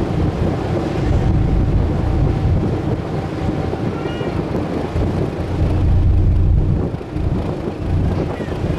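Wind buffeting the microphone over the steady low rumble of a sightseeing boat's engine, with a short rise-and-fall call about four seconds in and a fainter one near the end, typical of a seabird.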